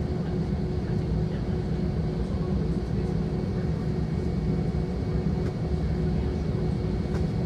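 Airbus A320 cabin noise while taxiing: the engines at idle and the cabin air give a steady, even hum with a low drone and a faint held tone.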